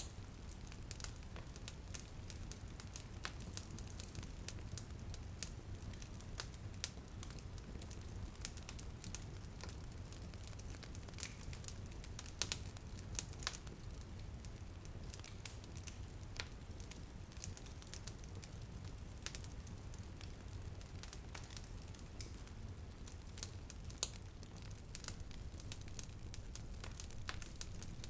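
Wood fire crackling in a fireplace, with irregular sharp pops and snaps over a steady low rumble; a few louder pops about twelve, thirteen and twenty-four seconds in.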